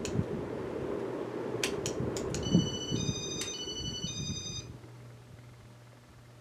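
1986 Casablanca Four Seasons ceiling fan running with a low rushing noise, a few sharp clicks, then a short melody of electronic beeps in stepped pitches. About four and a half seconds in, the rushing drops away and leaves a low steady hum.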